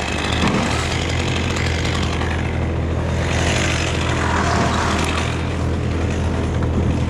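Chainsaw running steadily, a continuous engine hum with no pauses.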